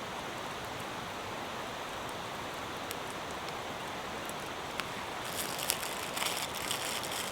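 Steady heavy rain, with a few sharp ticks. About five seconds in, a dense spell of high crackling starts.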